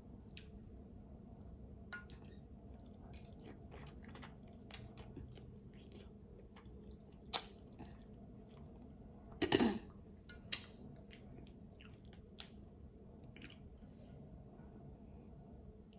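A person eating into a close microphone: soft chewing and scattered small mouth and shell clicks, with a sharp click about seven seconds in and a louder, longer crunching noise about two seconds after it.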